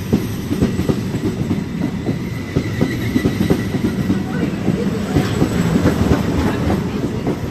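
Double-deck electric passenger train rolling close past the platform: a steady rumble of wheels on rails with quick irregular clickety-clack from the wheels over the rail joints, and a faint high whine in the middle.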